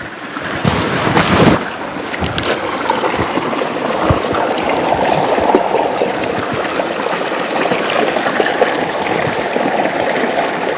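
Close river water rushing and splashing over rocks, a steady loud noise, with a louder burst about a second in.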